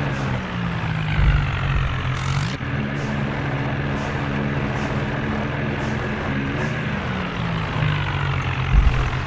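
Tractor engine running, its pitch dropping and rising several times as the revs change.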